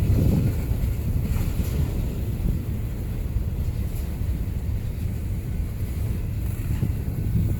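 Wind buffeting a phone's microphone: a steady, fluttering low rumble.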